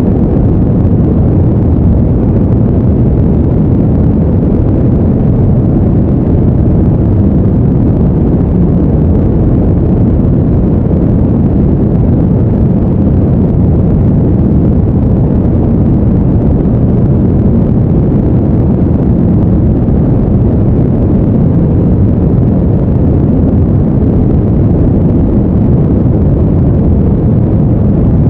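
Loud, deep, even noise with no pitch, beat or change.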